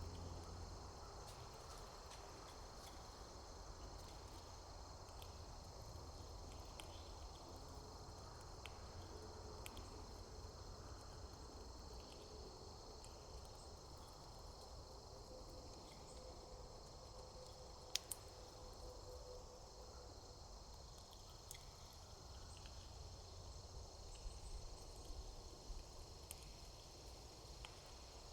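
Faint steady chorus of crickets: a continuous high-pitched trill over low outdoor rumble, with a single sharp click about eighteen seconds in.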